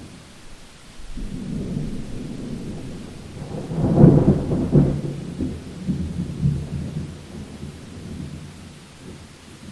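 Thunder rumbling during a rainstorm: a low roll builds about a second in, cracks loudest around four seconds, then rumbles on and fades near the end, over a steady hiss of rain.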